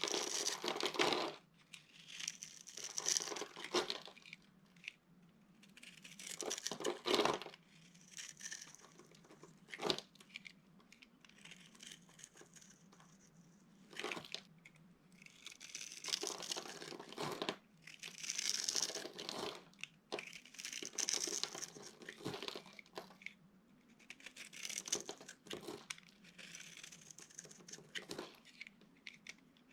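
Dry soap being crushed and broken up, crackling and crunching in repeated bursts a second or two long with short pauses between.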